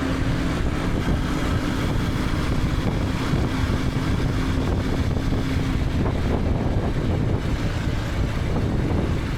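KTM 250 Adventure's single-cylinder engine running steadily under way, heard through a helmet-mounted camera with wind and road noise. A steady tone in the engine sound fades out about six seconds in.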